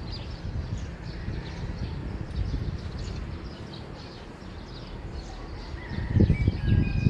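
Morning bird chirping: many short, quick chirps from small birds over a steady low rumble of outdoor background noise. About six seconds in, a louder low, uneven rumbling starts.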